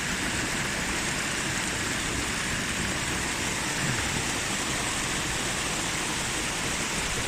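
Steady rush of fast-flowing river water, an even noise without pauses or changes.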